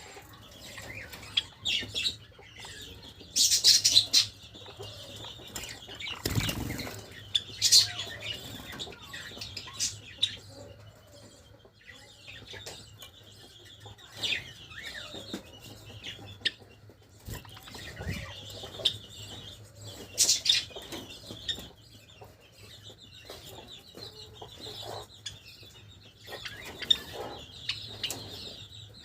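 Java sparrows fluttering their wings in short bursts, with scattered clicks and soft brief chirps; the loudest flurries come at about 4, 8 and 20 seconds in.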